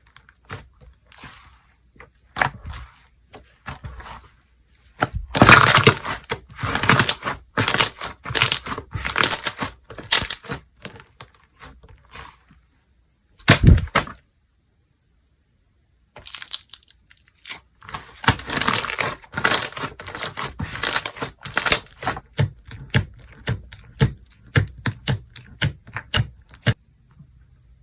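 Slime being squished, stretched and pressed by hand, giving dense runs of crackling and popping clicks from trapped air. About halfway through the play stops briefly with one dull thump, then the crackling starts again.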